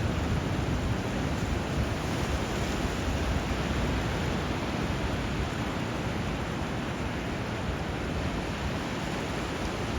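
Steady rushing of water where a river flows into the sea surf, an even wash of noise with no single wave break standing out.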